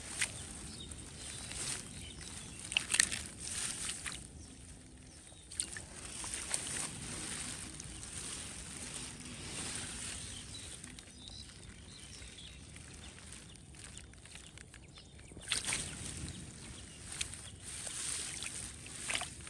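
Shallow water sloshing and splashing in a flooded rice field, with several short, sharp splashes between quieter stretches.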